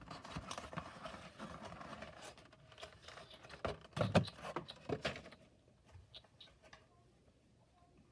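Cardboard playset parts being handled and fitted together by hand: rustling with small taps and clicks, louder for a moment about four seconds in, then dying down to quiet handling for the last few seconds.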